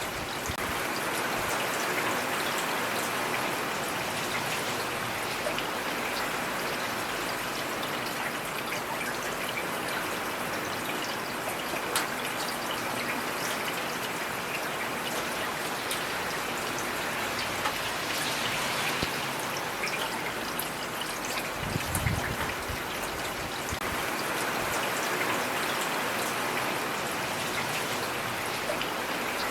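Steady rain falling, with running stream water beneath it and sharp drop ticks now and then. A short low thump comes about three quarters of the way through.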